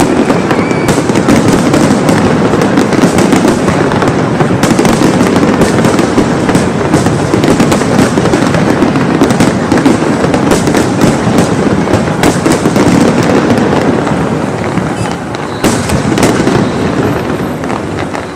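Fireworks display in a dense, continuous barrage of bangs and crackles, very loud throughout, thinning a little over the last few seconds.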